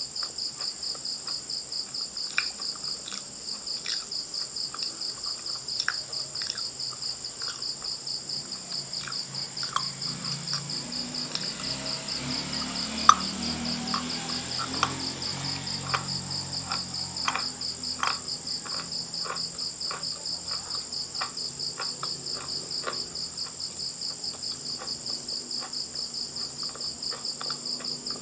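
A cricket chirping in a rapid, even pulse throughout, with scattered close-up crunches and crackles of chalk being chewed. The loudest crunch is a single sharp snap about halfway through.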